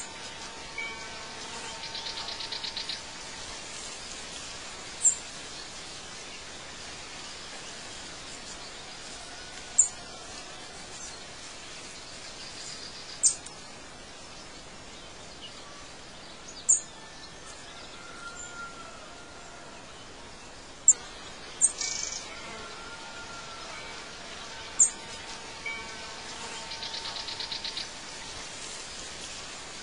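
Birds chirping over a steady outdoor hiss: sharp, high chirps every few seconds, and a fast trill near the start and again near the end.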